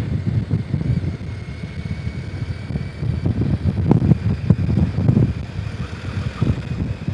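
Motorcycle ride heard through a helmet-mounted intercom microphone: an uneven low rumble of engine and wind buffeting that rises and falls, with no steady pitch standing out.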